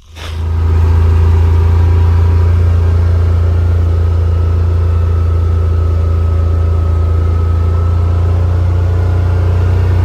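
Side-by-side UTV engine running steadily at a constant pitch, a loud even hum that starts abruptly.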